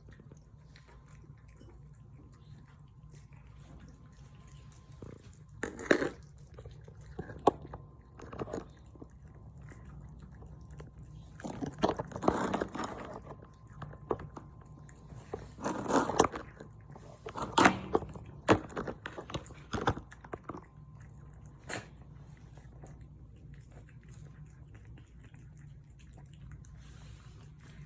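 Stray cats eating, chewing and crunching their food in uneven bursts with scattered clicks, mostly in the middle stretch, over a steady low hum.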